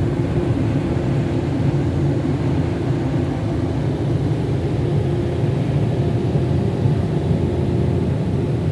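Car wash drying blowers running, heard from inside the car's cabin: a steady, even rumble with a low hum.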